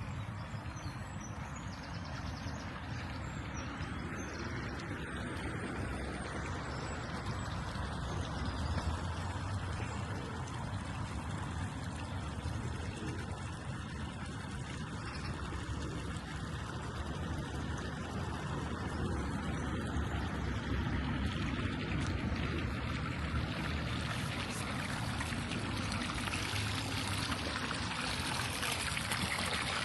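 Running water, a steady trickling and splashing that grows louder over the last few seconds.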